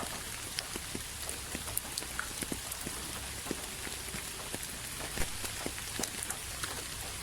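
Steady rain: a constant hiss with many separate drops ticking and pattering irregularly on a hard surface.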